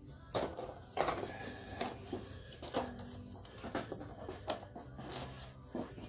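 Irregular clicks, knocks and scraping, about six sharp ones over the few seconds, like hands and tools handling parts; no engine running.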